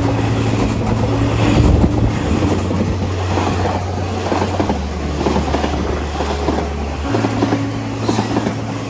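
EMU3000 electric express train running through the station at speed, its cars rushing past close by with a continuous rumble and rattle of wheels on rail.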